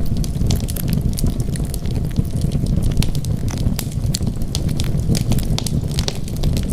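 Wood fire burning: a steady low rumble of flames with frequent irregular crackles and pops from the burning wood.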